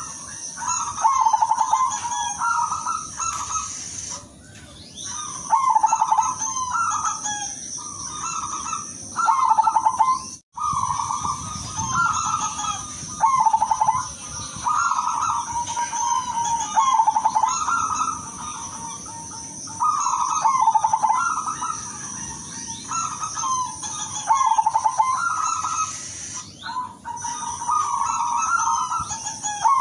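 Silver zebra dove (perkutut) cooing: rolling, trilled coo phrases repeated every two to three seconds over a steady high hiss, with a sudden brief dropout about ten seconds in.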